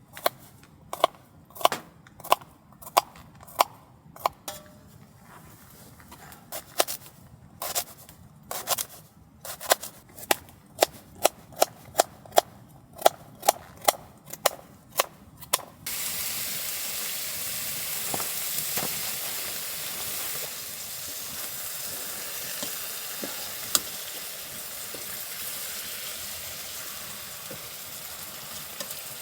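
A run of sharp, irregular clicks and taps, then about halfway a steady sizzle starts suddenly: food frying in a hot pan.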